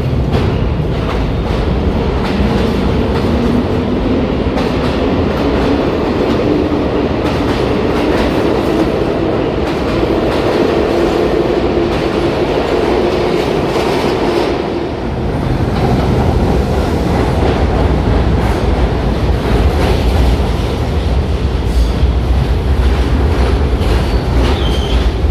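New York City Subway train pulling out of the station: the traction motors whine and climb steadily in pitch over the clatter of the wheels on the rails. About fifteen seconds in, the whine gives way to a heavy low rumble of the cars running on the track.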